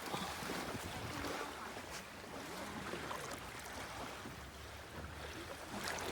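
Steady wash of small sea waves at the shore, with some wind on the microphone.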